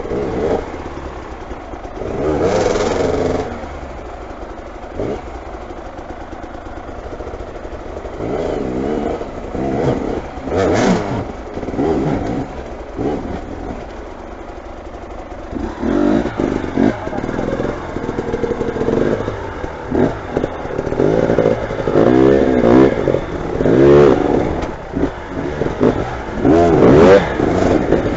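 Motorcycle engines revving in repeated throttle bursts, the pitch rising and falling. They are sparse through the first half and come thick and fast from about halfway on.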